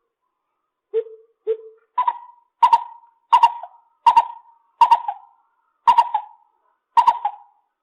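Lesser coucal calling: two low notes, then a series of seven louder, higher notes spaced about two-thirds of a second apart, the gaps widening toward the end.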